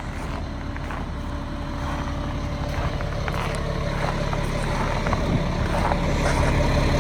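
Caterpillar C7 diesel engine of a Peterbilt 335 truck idling steadily, growing gradually louder, with a few faint light knocks.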